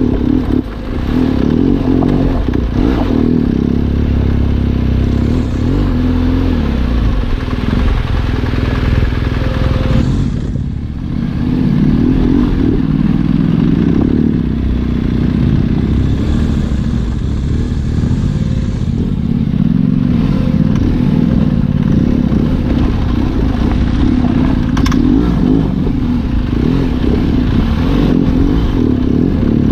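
Trail motorcycle engine running under changing throttle on an off-road dirt track, its revs rising and falling. It eases off briefly about ten seconds in, then pulls again.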